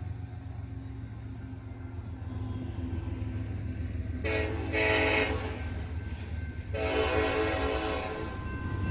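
BNSF freight locomotive's air horn sounding two blasts, the first about four seconds in and the second near seven seconds, over the steady low rumble of the diesel engines. The horn is a warning to a trespasser walking on the tracks ahead.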